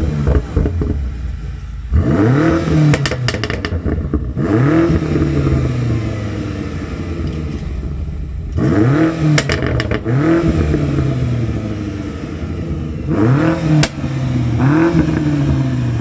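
BMW F90 M5 Competition's twin-turbo V8 freshly started and revved at standstill in about seven blips, each rising and falling back to idle, with a few sharp cracks as the revs drop.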